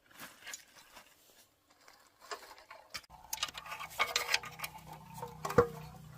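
Light clicks, taps and metallic clinks of tools and small engine parts being handled, growing busier about halfway through, with a faint low hum joining in.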